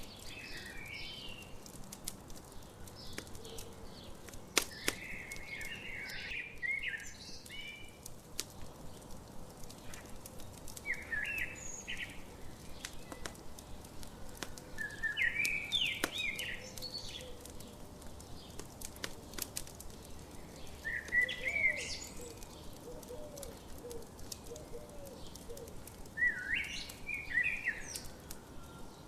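A songbird singing short warbling phrases, about one every five seconds, over the scattered pops and crackles of a wood campfire.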